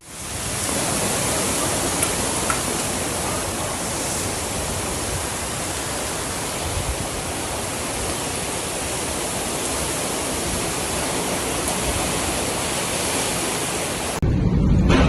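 Steady rushing of hurricane rain and wind, with no breaks or distinct impacts. Near the end it cuts suddenly to a deeper rumbling sound.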